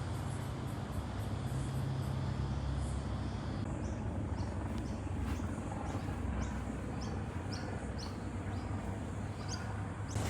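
A bird chirps repeatedly, short rising chirps about two a second starting about four seconds in, over a steady low outdoor rumble.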